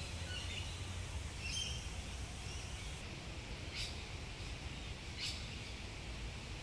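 Birds giving short, high chirps, several in the first couple of seconds and two more brief ones later, over a steady low background rumble.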